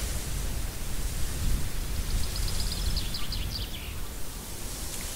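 A songbird sings one quick trill of high repeated notes, dropping in pitch at the end, about two seconds in, over a steady low outdoor rumble.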